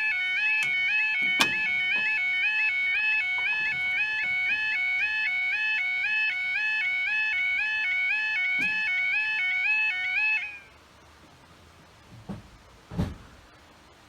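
Level crossing's electronic warning alarm sounding, a rapidly repeating stepped two-tone yelp. It cuts off about ten seconds in, followed by quiet with a couple of dull thumps near the end.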